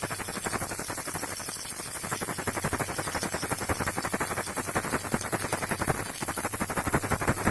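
Baby rattle shaken fast and without pause, a dense stream of rattling clicks over a steady hiss and low hum.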